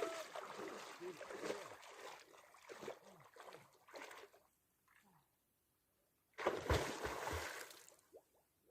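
Water splashing and sloshing as people wade and swim, with a few brief voice sounds. This stops abruptly for about two seconds, and then a louder rush with deep thumps comes in about six and a half seconds in and fades away.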